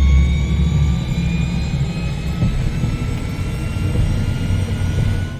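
Helicopter turbine engine running, heard inside the cabin: a steady low rumble with a high whine that rises slowly in pitch as the engine spools up before takeoff. It cuts off abruptly at the end.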